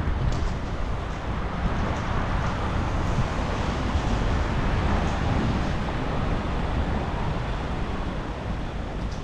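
Strong storm wind gusting, a steady loud rush with a heavy low rumble as the gusts buffet the microphone.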